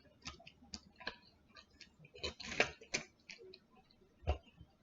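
Close-up eating sounds from chewing sauce-coated chicken wings: irregular wet mouth clicks and lip smacks, a few louder snaps about halfway through and near the end.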